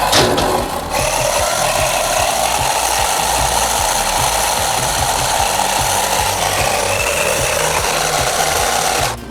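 Toy-grade RC drift car held at full throttle, its small electric motor and plastic gearbox whirring with a steady rasping scrub, an attempted burnout on rubber tyres that doesn't break them loose. The noise stays even for about nine seconds and cuts off just before the end.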